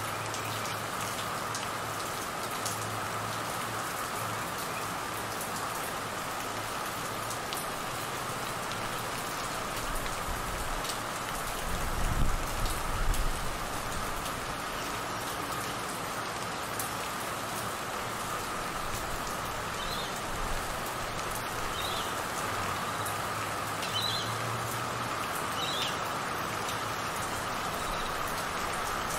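Steady rain falling on trees and sodden ground, with a continuous high drone of crickets underneath. About twelve seconds in a low rumble swells briefly, and later come a few short high chirps.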